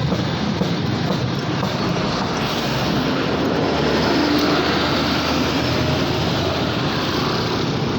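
Road traffic noise: vehicles passing close by, with a heavy one swelling louder through the middle and easing off again.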